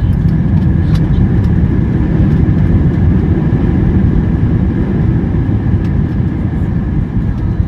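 Loud, steady low rumble inside the cabin of an Airbus A319 during landing: the engines and airflow, with a faint steady whine above.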